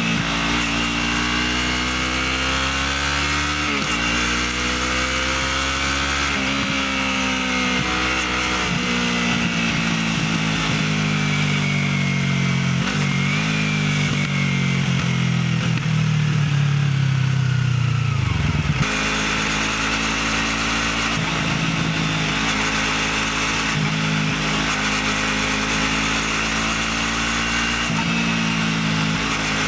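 Motorcycle engine running through a stock (standard) exhaust, its pitch rising and falling. About two-thirds of the way through the note drops suddenly, then runs steadier.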